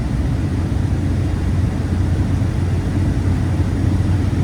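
Steady low drone of a 1995 Chevrolet 1500 pickup cruising, heard from inside the cab: its 4.3-litre V6 engine running under load along with tyre and road noise.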